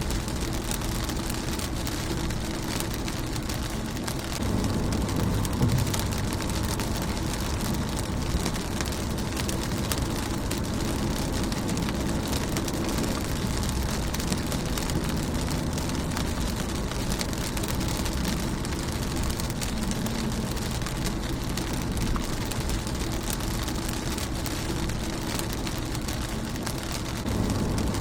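Steady rain falling on a car's windshield. A low rumble under the rain grows louder about four seconds in and again near the end.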